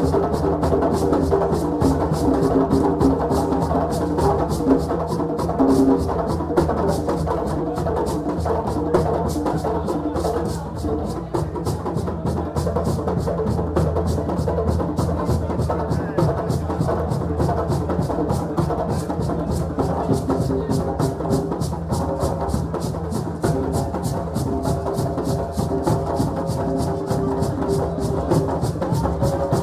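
Group drumming: drums and other percussion playing a fast, dense, unbroken rhythm, with voices mixed in.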